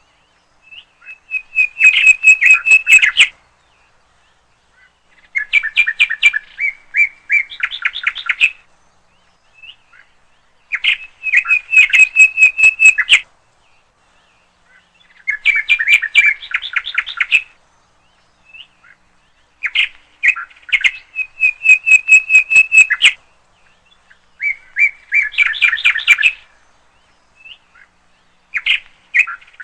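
A songbird singing, repeating phrases of rapid chirps and trills, each about two to three seconds long, with short pauses between them.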